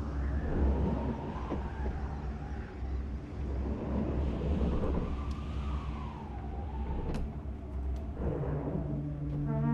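Film soundtrack: a steady deep rumble with a wailing tone that slowly rises and falls, like an alarm siren, joined near the end by low held horn-like tones.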